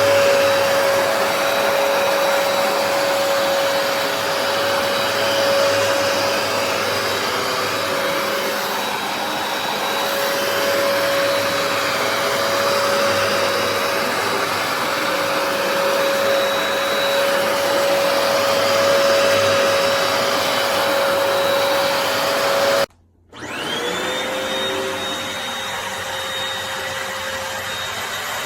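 Hoover PowerDash Pet compact carpet cleaner's suction motor running with a steady high whine and rushing air. About 23 seconds in it cuts out abruptly, then spins back up with a rising whine and runs on.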